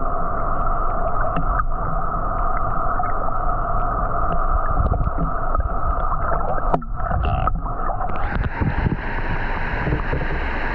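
Waterfall plunge-pool water churning, heard through a GoPro held underwater: a dull, muffled rumble with the high sounds cut off. About eight seconds in the sound turns brighter as the camera nears the surface.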